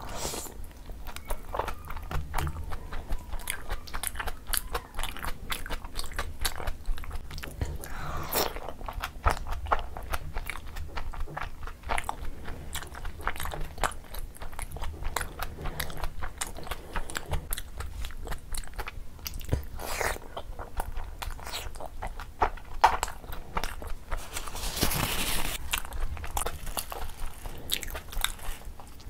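Close-miked eating: a person biting and chewing soft food coated in thick gravy, with wet mouth clicks and smacks throughout. A longer noisy swell comes about 8 seconds in, and a bigger one just before the end.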